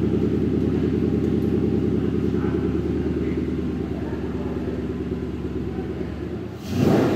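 Puritalia 427's supercharged 5.0 litre V8 idling with a steady, lumpy rumble shortly after start-up, then blipped once near the end in a quick rev that rises and falls back.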